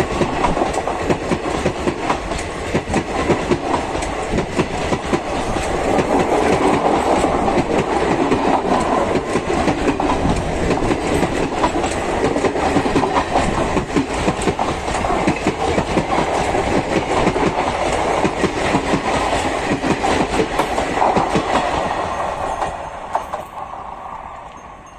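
Coaches of a passenger express train rolling past, the wheels clattering rapidly over the rail joints. The sound fades away near the end as the last coach goes by.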